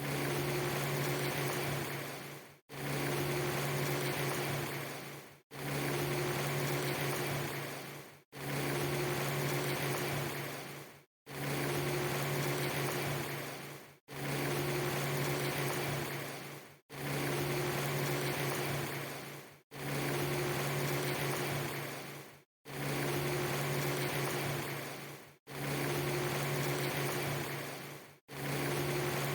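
Looped rain ambience: a steady hiss with a low hum under it, repeating as one short clip about every three seconds and dropping out to silence for a moment between each repeat.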